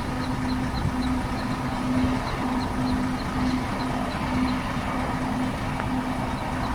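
Helicopter running during take-off: a steady rotor chop under a throbbing tone that pulses about three times a second.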